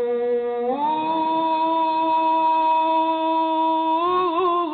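Solo male voice chanting an Egyptian ibtihal, an Islamic devotional supplication, stretching one syllable into a long held note that steps up in pitch about a second in, holds steady, then breaks into a quick warbling ornament near the end.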